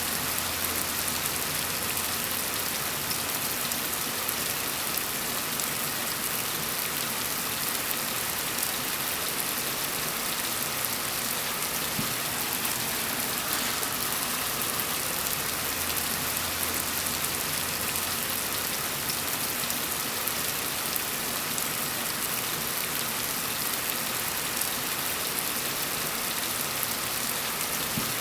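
Steady rain falling, a dense, even hiss of many drops without let-up.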